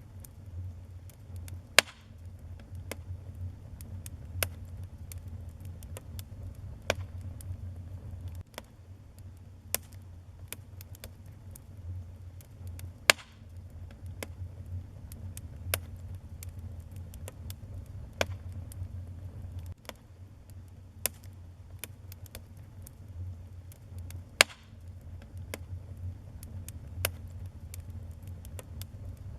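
Wood fire in a fireplace crackling: irregular sharp pops, the loudest about two seconds in, near the middle and a few seconds before the end, over a steady low rumble.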